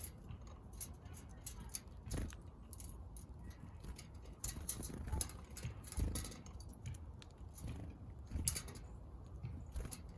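Small backyard birds pecking at seed, a quick irregular run of light taps and clicks.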